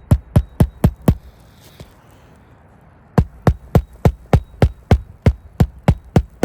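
Hammer driving roofing nails through an asphalt shingle into the roof deck: rapid strikes at about four a second, in two runs with a pause of about two seconds between them.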